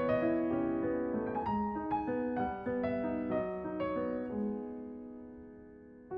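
Background solo piano music: a gentle melody of single notes over chords, with the last chord dying away near the end.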